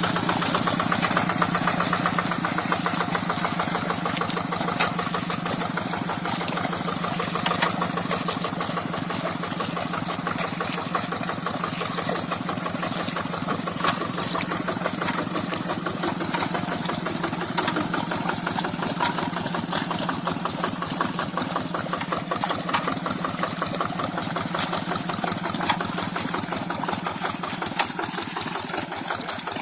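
Tractor engine running steadily with a rapid, even pulsing beat, with a few short sharp clacks scattered through.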